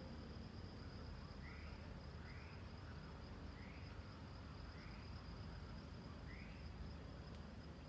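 Forest insects, crickets or cicadas, keep up a steady high trill. A bird gives a short rising-and-falling call five times, roughly once every second or so, over a faint low rumble.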